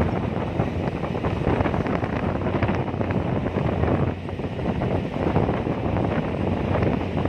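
Strong wind buffeting the microphone in uneven gusts, over the steady low drone of a car ferry's engine.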